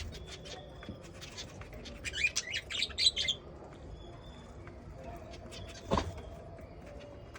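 Aviary birds chirping: a quick run of loud high chirps about two seconds in, with scattered light ticks and softer calls around it, and a single sharp knock about six seconds in.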